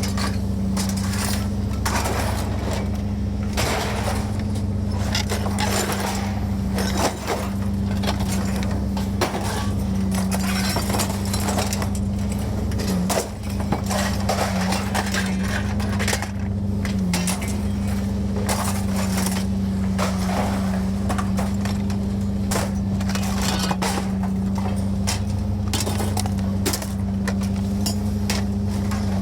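Scrap metal clanking and clattering in many separate knocks as pieces are thrown about, over a steady low engine hum.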